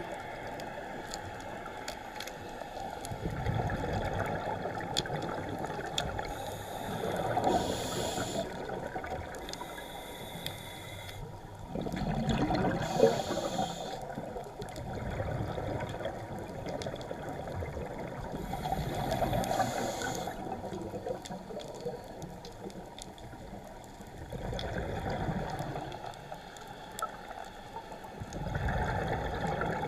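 Scuba divers breathing underwater: exhaled bubbles from the regulator burbling in swells every five to seven seconds, muffled as heard through the camera's underwater housing.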